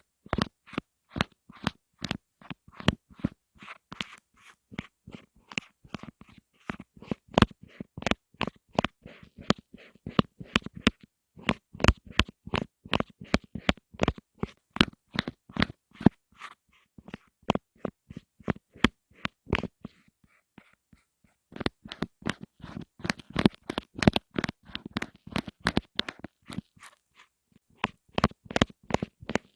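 Close-miked ASMR tapping: quick, irregular crisp taps and clicks, several a second, with short pauses about 11 and 20 seconds in.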